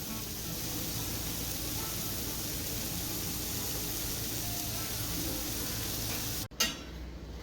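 Garlic-buttered bread roll sizzling face-down in a hot pan, a steady hiss that cuts off suddenly near the end.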